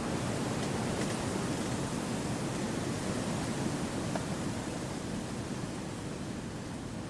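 Wind blowing through forest trees: a continuous, even rushing noise, weighted toward the low end, that swells a little and eases slightly near the end.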